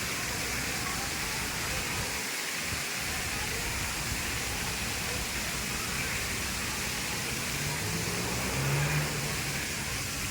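Steady rushing background noise outdoors, with no distinct events; a faint low hum rises briefly about eight seconds in.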